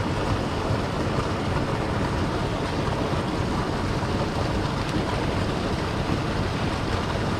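Steady, even rush of loud creek water.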